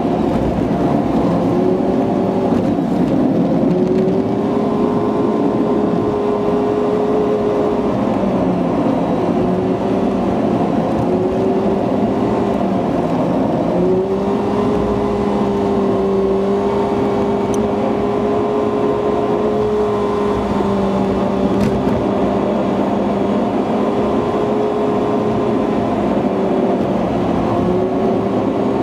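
Car engine and road noise heard from inside a moving car, sped up by the fast-forward edit. The engine's hum holds a steady pitch, dips and climbs again a couple of times as the car works up the winding mountain road.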